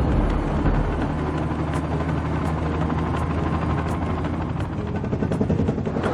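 Steady heavy engine drone with scattered sharp cracks over it.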